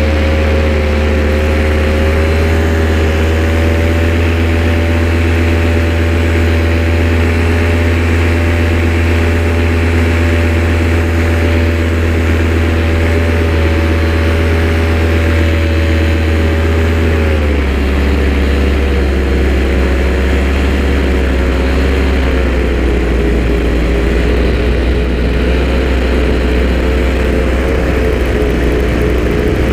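A loud engine running at steady revs. Its pitch drops a little about seventeen seconds in, then holds steady again.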